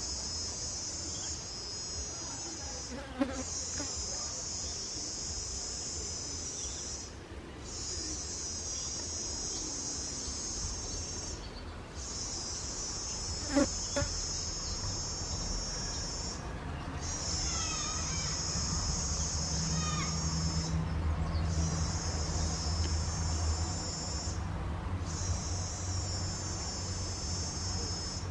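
Insects trilling in high-pitched bouts of about four seconds, each broken by a short pause, over a low rumble.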